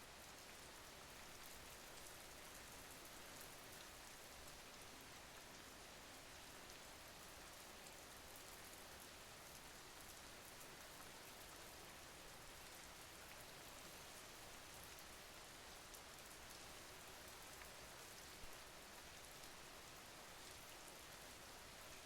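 Faint, steady rain falling: an even hiss with a fine patter of drops. There is one small click about eighteen seconds in.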